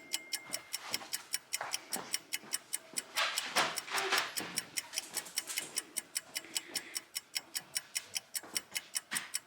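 Fast, steady clock-like ticking, about four ticks a second, with a burst of rustling about three to four seconds in.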